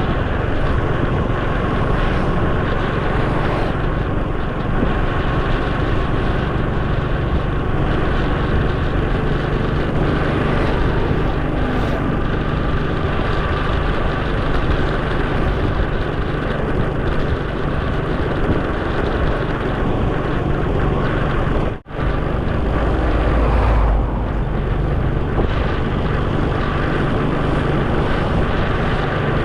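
Steady engine and wind noise of a motorcycle riding on the road. The sound cuts out for an instant about 22 seconds in, followed by a deeper rumble for a couple of seconds.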